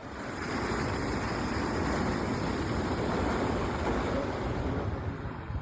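Rushing floodwater: a fast, muddy torrent carrying dirt and stones, a steady dense rush that eases off near the end.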